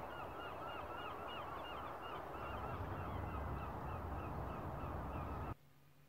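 A bird calling over and over in a quick run of short, bent notes, about four a second, with wind rumbling on the microphone; both cut off suddenly near the end.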